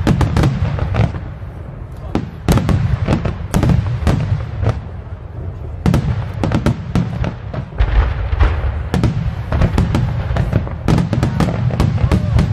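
Aerial fireworks shells bursting in rapid, irregular succession: a dense run of sharp bangs and deep booms.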